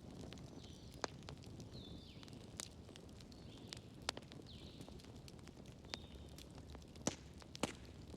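Wood fire crackling in a fireplace: about half a dozen sharp pops, the loudest two near the end, over a low steady rumble of burning.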